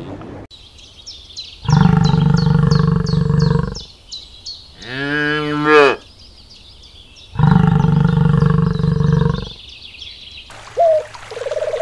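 Bison bellowing: two long, low calls of about two seconds each, with a shorter call between them that rises and falls in pitch. A bird chirps over and over in the background.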